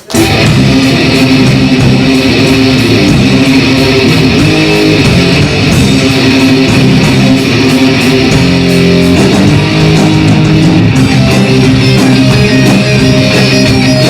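Loud guitar-led rock music, the instrumental intro of the song before the vocals come in, with strummed guitar and a steady full band.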